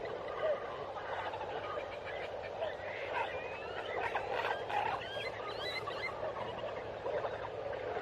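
Dense chorus of frogs and birds calling together, with many overlapping chirps and trills, typical of tropical forest at dusk or after rain. A few sliding bird whistles stand out around the middle.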